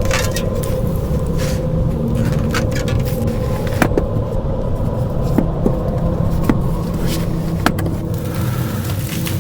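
A motor vehicle running, with a steady low engine and road rumble and a steady hum, and scattered sharp clicks and rattles.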